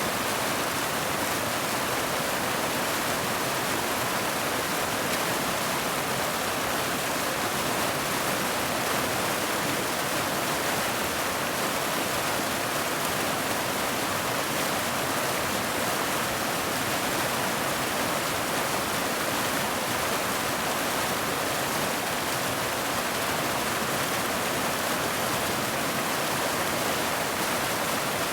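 Waterfall's rushing water, a steady, unbroken roar.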